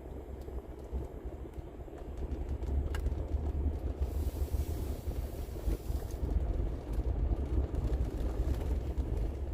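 Car driving, heard from inside the cabin: a steady low engine and road rumble that gets louder a few seconds in as it picks up speed.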